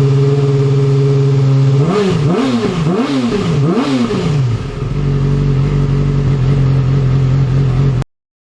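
Yamaha R6 sport bike's inline-four running through an aftermarket exhaust: a steady engine note, then three quick throttle blips, each rising and falling in pitch, before it settles back to a steady idle. The sound cuts off abruptly near the end.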